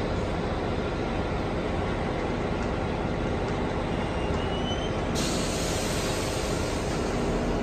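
NJ Transit passenger train standing at the platform, giving a steady, even mechanical hum. A higher hiss joins about five seconds in.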